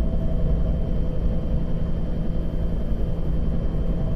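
Bell AH-1 Cobra attack helicopter's turbine engine and rotor running at a steady pitch, heard from inside the cockpit.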